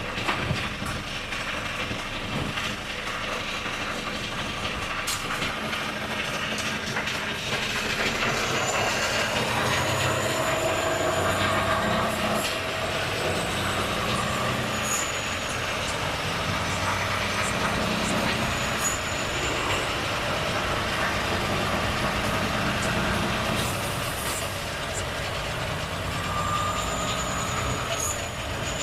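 Volvo FH truck's inline-six diesel engine running steadily under way, with road noise. A few brief high squeals come and go.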